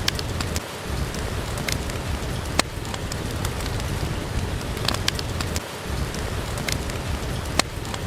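Steady rain, with a handful of sharp pops and crackles from a wood fire in a fireplace scattered through it.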